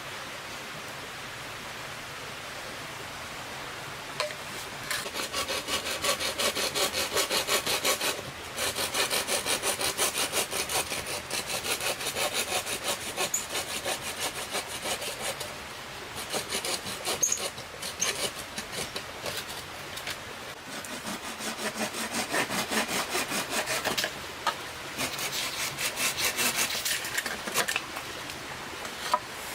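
Saw cutting wood in quick back-and-forth strokes, in several runs broken by short pauses, starting a few seconds in.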